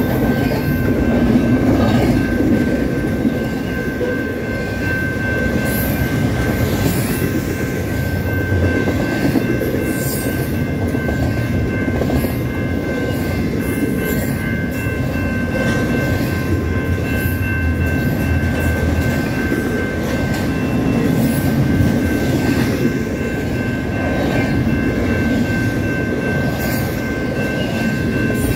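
Double-stack intermodal freight train rolling through a level crossing, its wheels rumbling and clacking over the rails. Over it the crossing's GS Type 2 electronic bell rings as a steady high tone.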